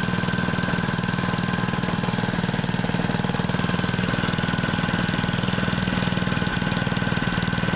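Small single-cylinder mini bike engine running at a steady speed, its firing pulses fast and even.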